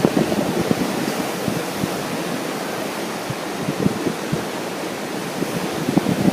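Wind buffeting the microphone over the steady rush of ocean surf, with gusts strongest at the start and again near the end.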